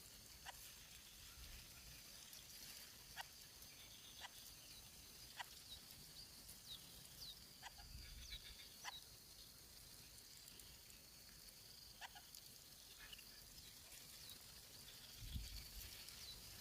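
Near silence: faint outdoor ambience with a steady high faint tone and scattered short chirps and clicks about every second or two.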